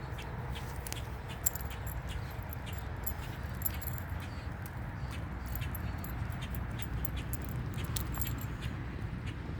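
Dogs' collar tags jingling in scattered light clicks as the dogs move about, over a steady low rumble.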